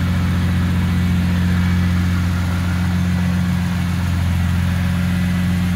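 BMW S54 straight-six, freshly swapped into an E30 M3, idling steadily on its first run.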